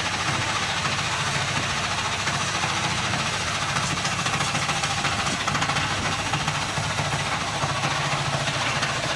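The diesel engine of a movable concrete hollow block making machine running steadily at a constant speed.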